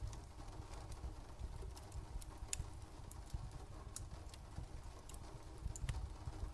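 Fire crackling, irregular sharp pops and snaps over a steady low rumble.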